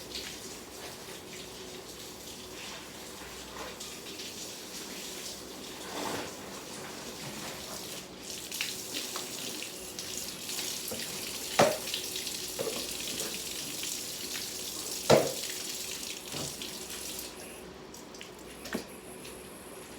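Tap water running into a sink while things are washed, with two sharp knocks and a few lighter clatters partway through. The water stops near the end.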